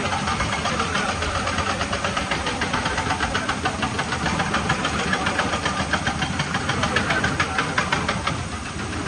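Diesel engine of heavy quarry machinery running steadily, with a rapid, even clatter.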